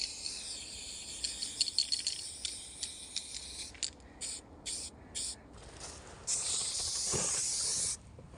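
Aerosol spray paint can spraying: a steady hiss with a few clicks for the first few seconds, then three short spurts, then a longer spray of about two seconds near the end.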